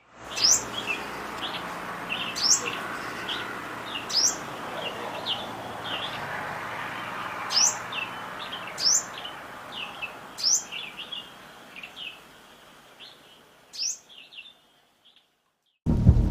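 Small birds calling: a sharp high note that drops in pitch, repeated every couple of seconds, with quicker short chirps in between over a steady background hiss. The calls and hiss fade out near the end.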